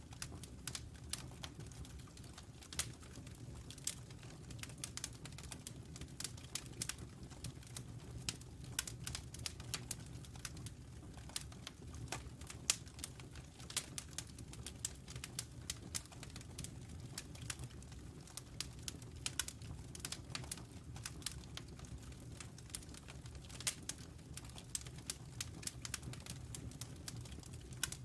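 Logs burning in a fireplace, crackling with many irregular sharp pops and snaps over a low, steady rumble of flame.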